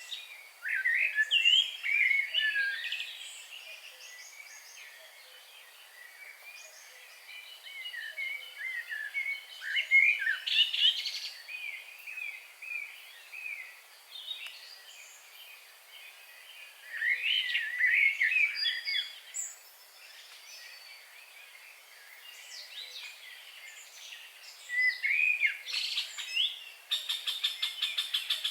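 Several songbirds singing and calling in bursts of quick, high chirps and whistled glides. Near the end a fast, even trill starts, at about eight notes a second.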